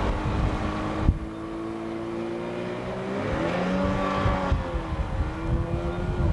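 Outboard motor pushing an inflatable boat, running steadily, then rising in pitch about three seconds in and easing back near the end. A single knock about a second in, with wind rumble on the microphone.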